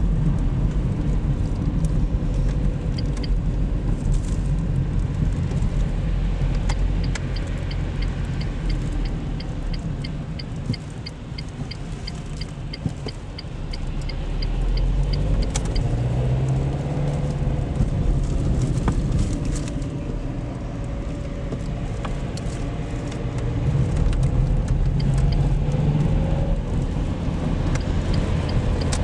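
Car driving, heard from inside: steady low engine and road rumble, with the engine note rising twice as the car speeds up. A light, even ticking at about two a second runs for several seconds in the middle.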